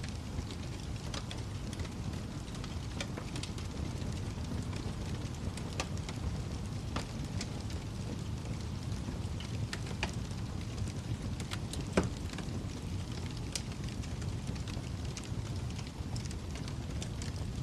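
Wood fire burning with a steady low rumble and scattered crackles, one louder pop near the end.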